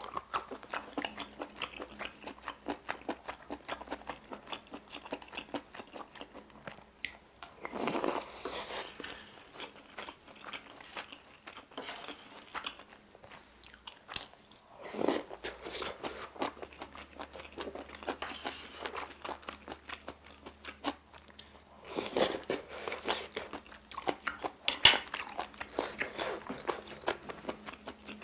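Close-miked eating of spicy stir-fried octopus and bunmoja glass noodles: wet chewing with many rapid small clicks, a few louder noisy bursts, and one sharp click about three-quarters of the way through.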